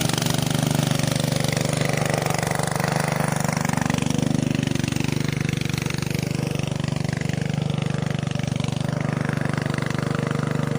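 Small motor of a homemade miniature flour mill running steadily, with a low hum and a fast, even rattle.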